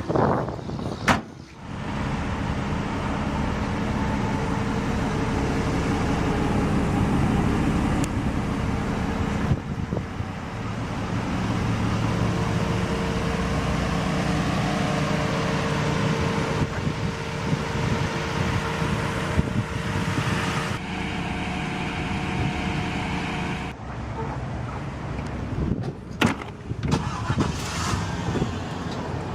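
A sharp knock about a second in, then a motor vehicle running with a steady hum that stops about 24 seconds in, followed by a few knocks.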